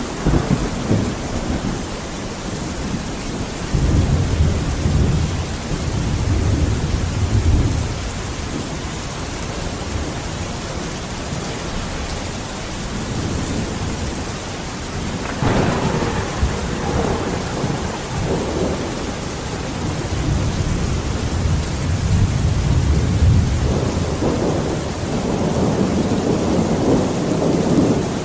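Steady rain with thunder rumbling several times. A low roll comes about four seconds in, a sharper clap breaks into a rumble around the middle, and another long rumble builds near the end.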